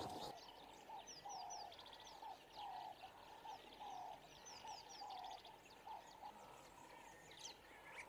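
Faint birdsong: one bird repeats a short slurred call over and over, joined by thin, high, falling chirps in quick runs of three or four.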